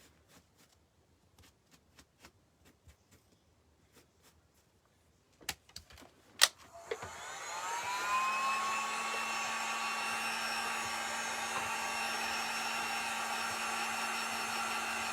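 A handheld hot-air blower is switched on about seven seconds in. Its motor whine rises and settles into a steady, loud run with a strong rushing-air sound, drying the first coat of acrylic paint. A couple of sharp clicks come just before it starts.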